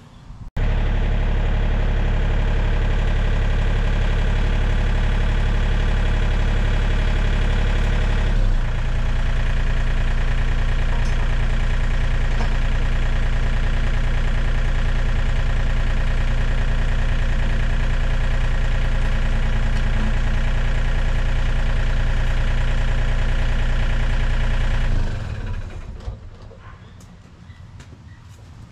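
John Deere 35D compact excavator's diesel engine running steadily, with a clear step down in its note about a third of the way through. The sound starts abruptly and dies away near the end.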